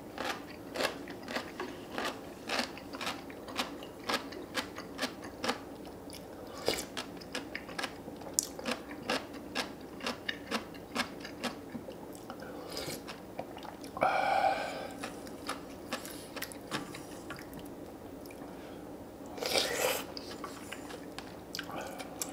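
Close-miked chewing and crunching of food, with rapid sharp crunches through the first half. Later comes a short pitched sound and, near the end, a brief rushing burst.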